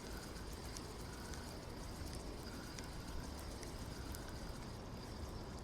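Quiet outdoor riverbank ambience: a steady low rumble with a faint high hiss and a few faint small clicks.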